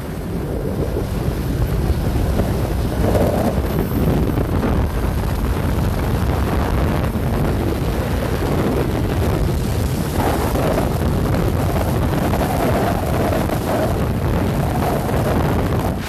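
Wind buffeting the microphone of a motorcycle riding at highway speed, mixed with the bike's engine and road noise; the rush swells now and then.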